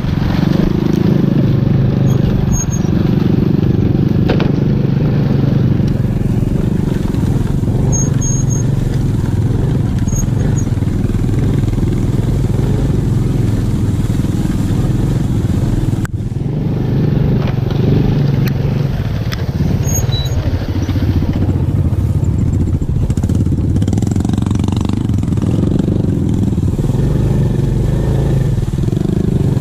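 Small motorcycle engine running steadily under light throttle, heard from the rider's seat while riding slowly through tall grass, its pitch wavering a little.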